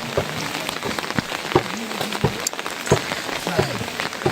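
Heavy rain falling, with many separate drops striking close by as sharp, irregular ticks over a steady hiss.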